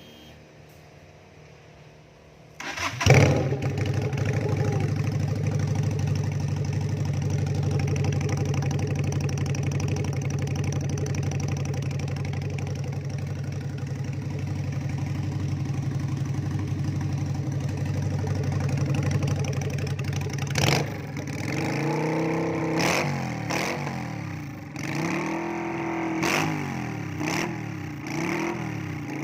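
SM Sport V16's 250cc V-twin engine through a custom exhaust, starting with a sharp burst about three seconds in and then idling steadily. In the last several seconds it is revved in a series of quick blips, each rising and falling.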